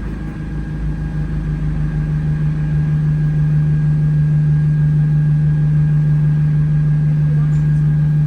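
Steady low drone inside an Alexander Dennis Enviro200 single-decker bus, with a faint pulsing. It swells over the first few seconds and then holds at one unchanging pitch. The bus has an odd vacuum-cleaner-like noise, which the uploader puts down to the air-conditioning cooling fan.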